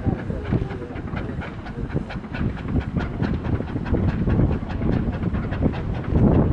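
Steam locomotive working, its exhaust chuffing in a quick, even rhythm over a low rumble, getting louder near the end.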